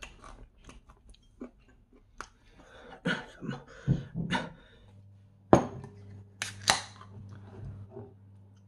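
Chewing fried chicken, with small clinks and knocks of a spoon and dishes on the table. About halfway through, a low steady hum comes in, and there are a few sharp clicks or knocks.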